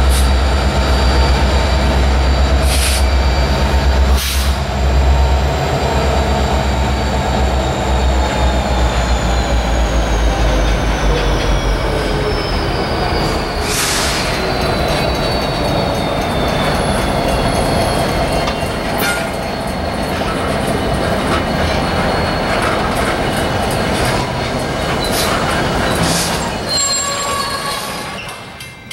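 Freight train passing close by: a diesel locomotive's deep engine drone fades away over the first dozen seconds, while the freight cars roll past with high, steady wheel squeal, one squeal tone sliding down in pitch, and a few sharp clanks from the wheels and couplers.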